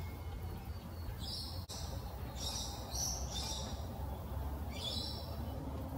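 Wild birds calling outdoors: three short high-pitched phrases, each under a second long, spaced about a second or two apart.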